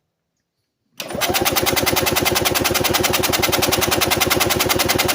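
A 1985 EZ-GO golf cart's two-stroke gas engine being cranked over by its starter with the throttle wide open, for a compression test. It starts about a second in as a fast, even chugging pulse. The compression reads only about 50 psi, low, which the owner puts down to worn rings or a blown head gasket.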